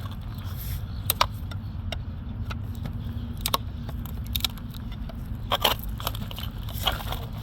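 Sharp metallic clinks and knocks of a steel pry bar working against the engine mount and its bracket, a few irregular strikes spread over several seconds, over a steady low rumble.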